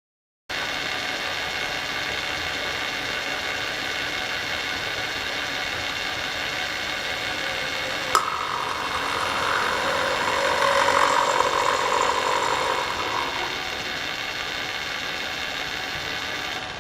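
A metal-working machine running steadily while cutting a slot through a metal sleeve. There is a sharp click about eight seconds in, after which the cutting grows louder for a few seconds and then eases back.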